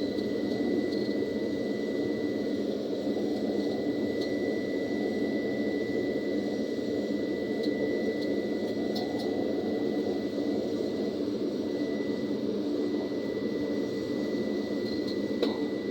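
Cessna Caravan's Pratt & Whitney PT6A turboprop engine running steadily, a dense drone under a constant high whine, with a brief click near the end.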